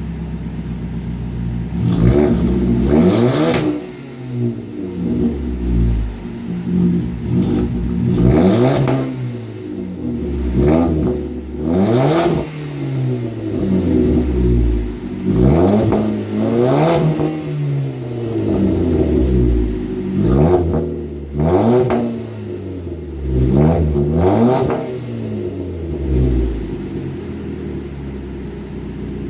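Ford Fusion's 2.5-litre four-cylinder engine with a muffler-deleted exhaust being blipped shortly after a cold start: about ten quick rises and falls in revs, some in pairs, dropping back to idle between them.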